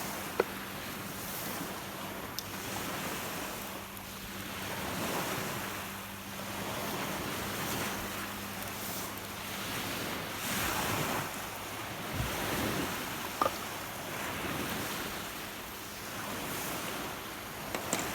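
Rough lake waves breaking and washing onto the shore, surging and ebbing every few seconds, with wind buffeting the microphone. A few sharp clicks stand out now and then.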